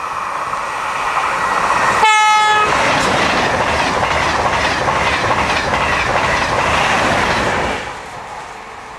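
A short horn blast about two seconds in, then an electric double-deck passenger train passing close at speed: a loud rush with rhythmic wheel clatter over the rail joints. The sound cuts off suddenly near the end.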